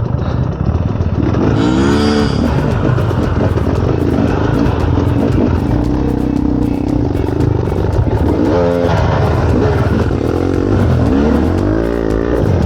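Enduro dirt bike engine revving up and down in repeated bursts, its pitch climbing and dropping several times.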